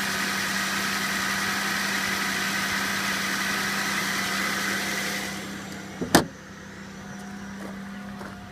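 2001 Chevrolet Impala's V6 engine idling steadily. About six seconds in, a single loud thump, after which the engine is heard more quietly.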